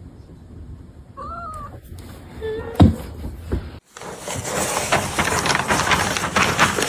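A cat meowing: one short rising-and-falling meow about a second in, then a short lower call a second later. Partway through, the sound cuts to a steady crackling hiss.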